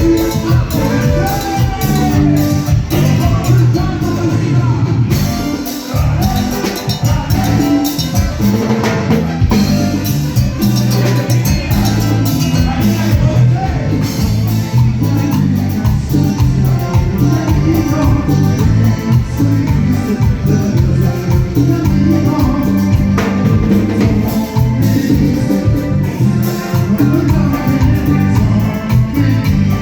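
A live band playing loud Latin dance music with a steady beat, heard as it sounds in the hall.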